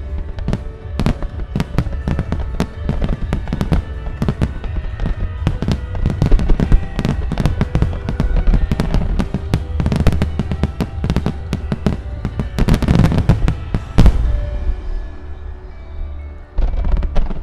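A rapid barrage of aerial firework shells bursting and crackling, with a deep rumble, over background music. The bursts thicken into a dense volley near the middle and peak in one loudest crack a little past halfway. After a brief lull, a fresh cluster of bursts comes near the end.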